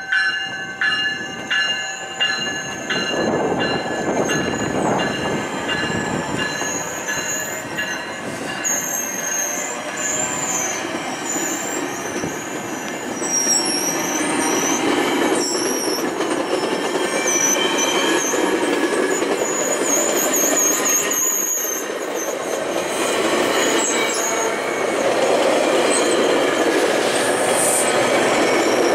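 Bilevel GO Transit commuter coaches rolling past as the train pulls out of the station, wheels running over the rails with a steady rumble and high, wavering wheel squeal through much of it. A bell rings about twice a second for the first two seconds or so. The rumble grows louder in the last few seconds.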